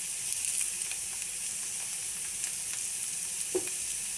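Banana slices sizzling in butter in a non-stick frying pan, with a few light taps and scrapes of a steel spoon as the slices are turned.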